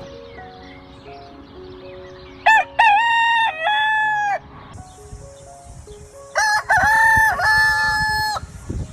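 Rooster crowing twice, each crow a drawn-out cock-a-doodle-doo of about two seconds, over faint background music.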